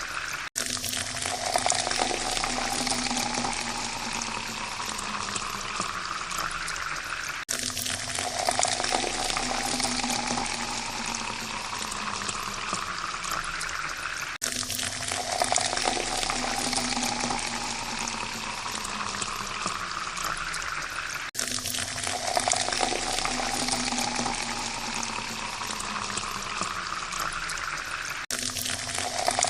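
Water poured into a glass, its pitch rising as the glass fills. The same pour repeats about every seven seconds, each one cut off sharply before the next begins.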